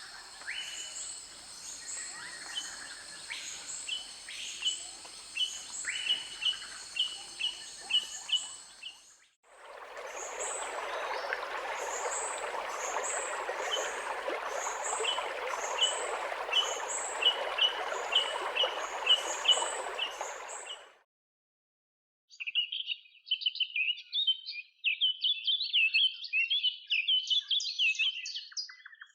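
Birds calling in a rapid series of repeated chirps over steady high-pitched insect tones. About nine seconds in, a steady rushing noise comes in under the chirps and runs until it cuts off around 21 seconds. After a brief silence, fast, jumbled bird chatter follows.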